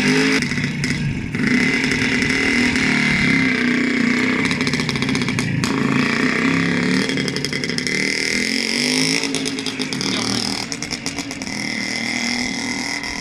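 Minsk 106 motorcycle engine running and being revved, its pitch rising and falling several times, with a rougher, rattly stretch near the end.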